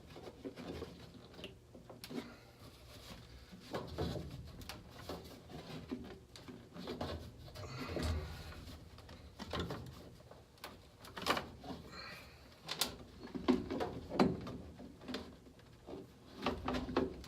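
Scattered clicks, taps and knocks of things being handled, coming irregularly and more often in the second half.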